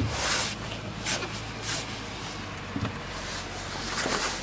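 2000 Toyota Camry four-cylinder engine idling steadily, heard from inside the cabin, with a few brief rustling and clicking handling noises.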